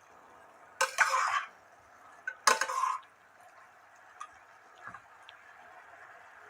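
Spoon stirring and scraping chicken pieces in a cooking pot: two short scraping bursts about a second and a half apart, then a few faint light clinks.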